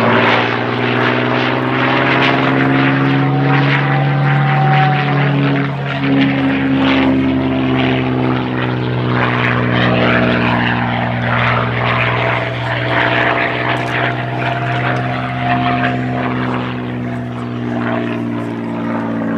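P-51D Mustang's Packard-built Merlin V12 engine running at display power as the fighter flies past, its pitch bending slightly as it moves. A thin whistle from the wing gun ports comes and goes over the engine twice.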